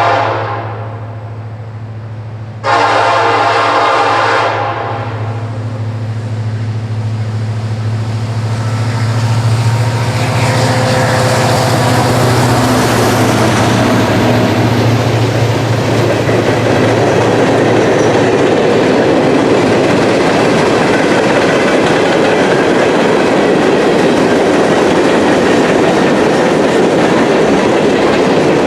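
Diesel locomotive passing close by: its horn sounds in two blasts, a short one at the very start and one of about two seconds a few seconds in, over the steady hum of the ex-CSX EMD SD70ACe's engine. The hum then gives way to the loud rolling clatter of the train's empty coke cars going by on the rails.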